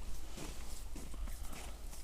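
Irregular light knocks and crunches, several a second, over a steady low wind rumble on the microphone.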